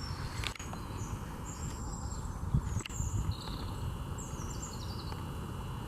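Small birds singing in short, high chirps and trills, with a thin steady high note running through the second half, over a low rumble on the microphone.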